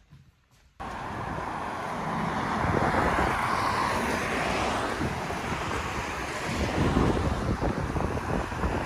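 Near silence, then a sudden cut to a steady outdoor rushing noise, like wind or distant traffic. It swells over the next two seconds and holds.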